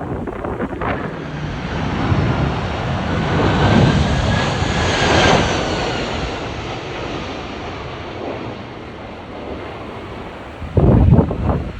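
Jet airliner passing low overhead: its engine noise swells to a peak about halfway through and then fades, with a whine that falls in pitch as it goes by. Strong wind buffets the microphone throughout, with a heavy gust near the end.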